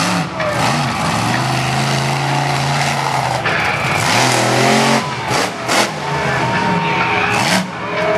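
Spike monster truck's supercharged V8 running loud, the throttle falling and rising several times with quick revs near the end.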